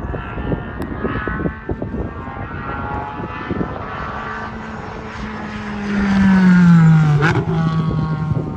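Race car passing at speed on a circuit: the engine note swells to its loudest about six to seven seconds in and drops in pitch as the car goes by.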